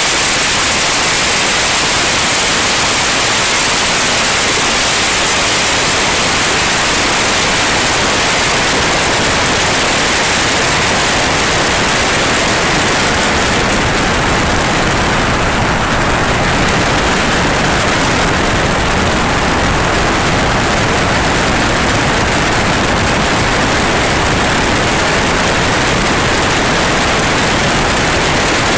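Steady, loud rushing noise of a light aircraft's cabin in flight, with engine, propeller and airflow blended into an even hiss and no distinct tones.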